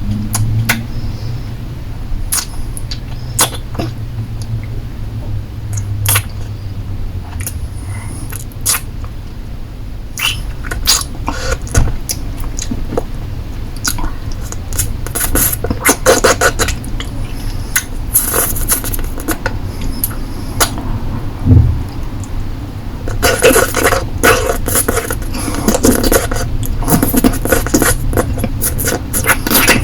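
Close-miked mouth sounds of a lollipop being sucked and licked: many short wet clicks and smacks, growing denser about halfway through and again in the last several seconds.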